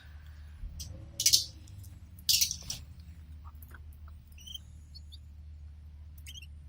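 Canaries in a cage: two brief, loud rustling bursts about a second apart, then a few short, high chirps. A steady low hum runs underneath.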